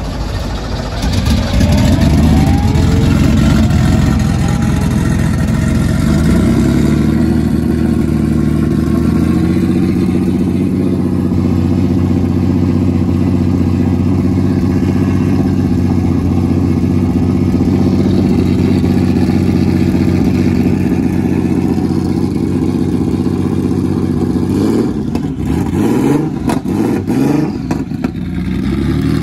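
Porsche 911 Turbo (930) 3.3-litre air-cooled, turbocharged flat-six cold-starting and running at a high fast idle, which settles to a slightly lower, steady idle after about seven seconds. Near the end the throttle is blipped a few times, the engine note rising and falling.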